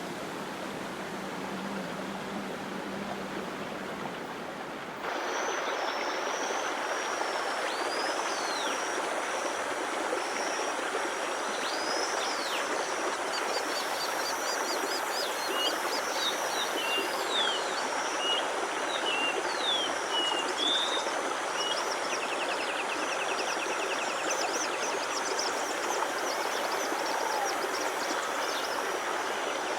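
Flowing stream with birds chirping and calling over it. About five seconds in, the sound switches abruptly from a quieter steady hiss with a low hum to the louder water and birdsong, and a fast trill joins near the end.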